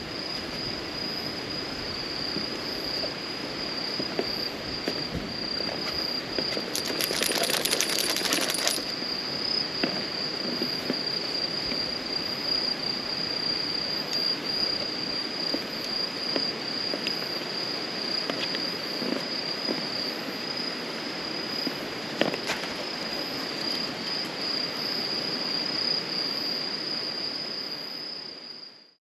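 Wood campfire crackling and popping, with insects trilling steadily behind it; a louder burst of hissing comes about seven seconds in, and everything fades out at the end.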